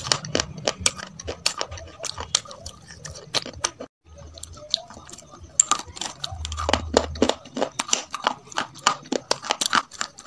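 Close-miked crunchy chewing of crispy fried chicken coating, with sharp, irregular crunches several times a second. The sound cuts out briefly about four seconds in.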